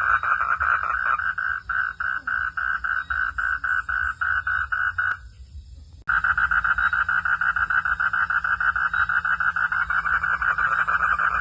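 A frog calling in a fast, even pulsed trill. The trill breaks off about five seconds in and starts again a second later.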